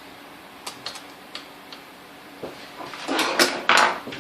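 Handling noises: a few light clicks, then a louder clatter of knocks and scrapes about three seconds in, over a faint steady hum.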